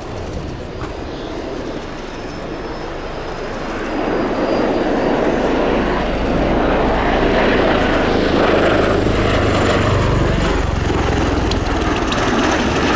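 Bell Boeing CV-22B Osprey tiltrotor in flight, the noise of its two proprotors and Rolls-Royce AE 1107C turboshaft engines. It grows louder about four seconds in and stays loud as the aircraft comes closer.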